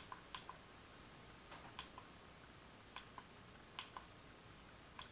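Faint, short clicks from a video iPod's click wheel, about a dozen irregular single and paired clicks as the wheel and buttons are worked on the freshly repaired player.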